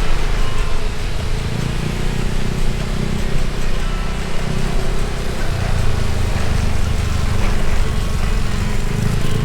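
Motorbike engine running steadily while riding, with road and wind noise heard from on the bike.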